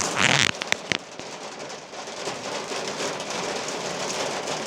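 Steady rain falling, an even hiss. In the first second there is a brief loud burst of noise and two sharp clicks.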